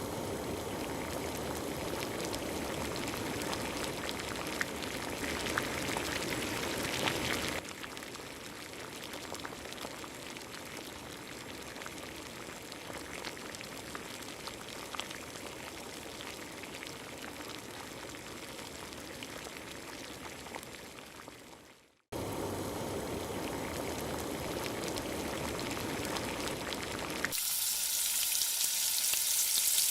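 Food frying in hot oil in a pan, a steady sizzling hiss, heard in several cut-together clips that change abruptly about a quarter of the way in, just past two-thirds, and near the end, where the sizzle turns brighter and louder.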